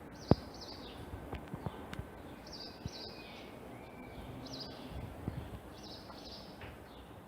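Small birds chirping in short repeated calls over a low background hum, with a few scattered clicks; a sharp click about a third of a second in is the loudest sound.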